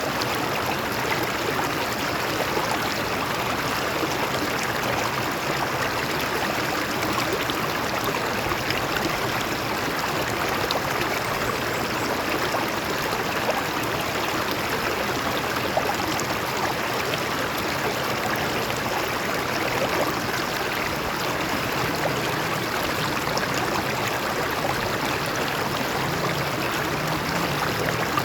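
Stream water flowing over rocks with a steady rushing and babbling.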